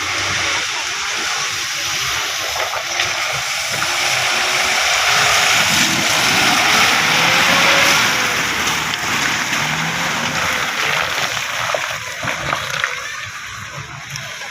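Off-road 4x4 driving through water: heavy splashing and spray, loudest in the middle, with the engine note rising and falling underneath.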